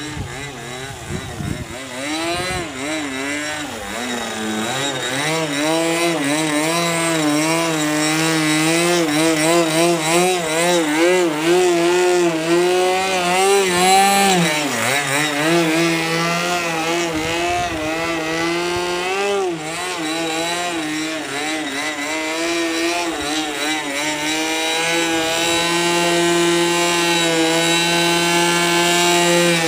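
An RC airplane's O.S. .46AX two-stroke glow engine running hard with a propeller, its pitch wavering up and down as the plane manoeuvres and passes. About halfway through the pitch dips, and near the end the note steadies and grows louder.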